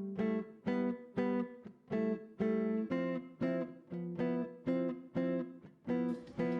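Guitar music: short plucked or strummed chords repeated at an even pace of about two a second, each dying away before the next.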